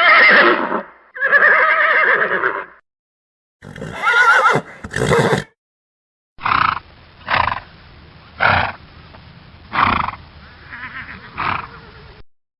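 Horse whinnying: two long calls, then two shorter ones, followed by a series of short sharp sounds about a second or so apart.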